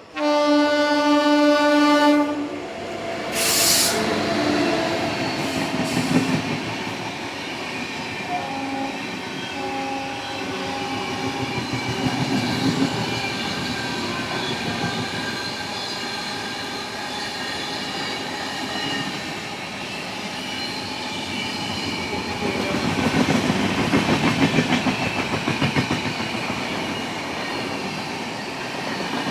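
Train horn sounding one long blast of about two seconds, then the train running past with a steady rumble and the rhythmic clickety-clack of wheels over rail joints, loudest late on.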